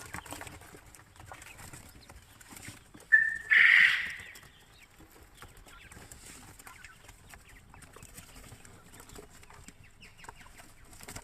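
A quail giving one short, loud call about three seconds in: a brief clear note, then a harsher burst. Faint clicking and rustling are heard around it.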